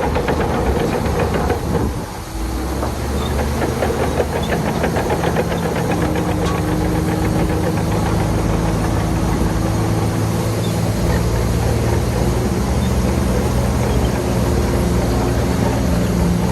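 Heavy diesel engine of earthmoving machinery running steadily, with a fast, even clatter during the first two seconds and a brief drop in level about two seconds in.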